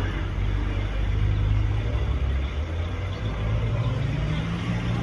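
Truck engine running with a steady low rumble, its pitch rising a little near the end.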